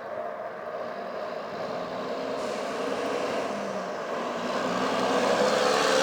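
A road vehicle's engine and tyres, growing louder over the last couple of seconds as it approaches, over steady riding noise.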